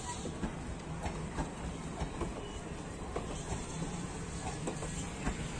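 Passenger train coaches rolling past close by, their wheels clicking and knocking irregularly over the rail joints, with a steady rumble of wheels on rail beneath.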